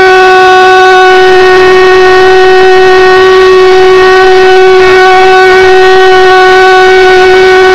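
Propane-fuelled mini thermojet (a valveless pulse jet) running steadily: a loud drone held at one unchanging pitch with strong overtones.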